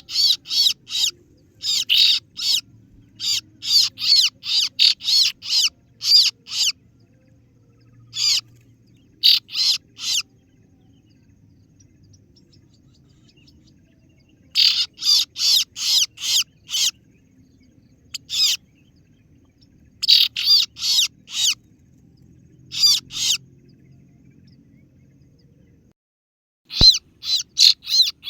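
Kaso-kaso bird lure call: quick runs of sharp, high 'ciet ciet' chirps, several in a row, with pauses of a few seconds between runs. A single click sounds near the end.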